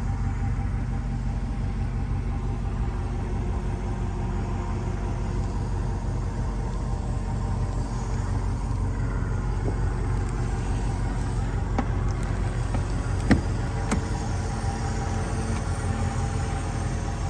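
A 2022 Range Rover Sport P525's supercharged V8 running at a steady speed, an even low rumble. A few light clicks come a little past the middle.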